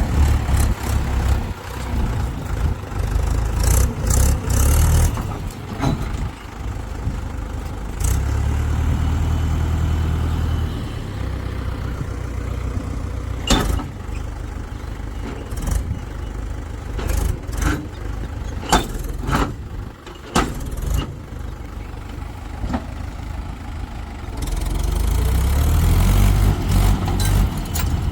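Heavy diesel machinery engine running, its revs and load rising and falling several times, with sharp knocks heard now and then.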